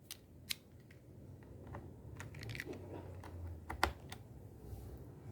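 Sharp plastic clicks and handling noises as a USB flash drive is fitted into a portable Bluetooth speaker. There are a few separate clicks, a quick cluster in the middle, and the loudest click just before four seconds in.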